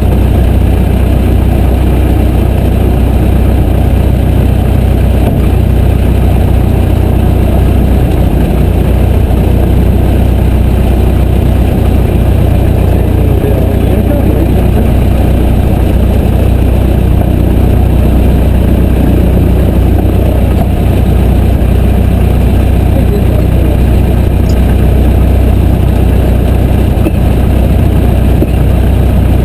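Piper J3 Cub's small piston engine and propeller running steadily: a loud, even drone.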